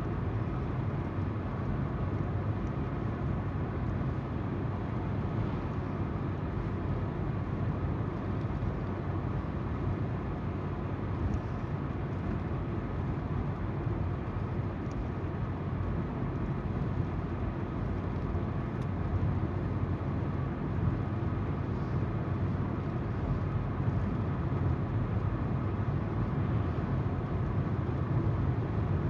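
Car driving steadily: tyres on the road with the low hum of the engine, heard from inside the car.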